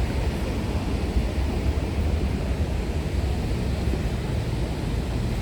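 Steady rushing roar of a large waterfall, heavy in the low rumble and unbroken.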